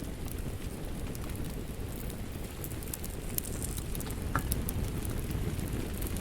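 Wood fire crackling in a fireplace: a steady low rumble of flames with scattered sharp pops and snaps.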